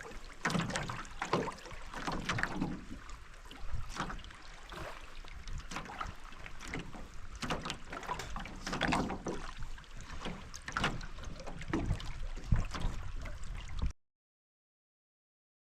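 Paddles knocking and clunking against a canoe's hull with splashing water as the canoe is backed in toward the bank, in irregular thumps. The sound cuts out suddenly about two seconds before the end.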